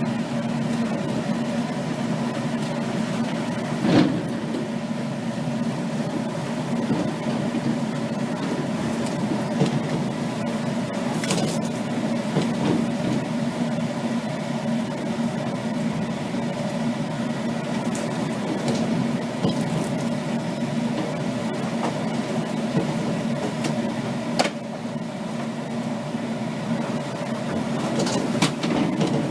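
Dive boat's engine running steadily, a constant low drone, with a few sharp knocks along the way, the loudest about four seconds in.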